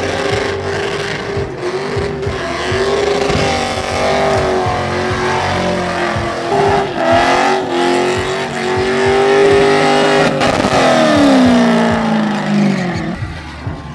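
A truck engine revving hard and holding high revs, its pitch rising and falling. Near the end it lets off and the pitch falls away.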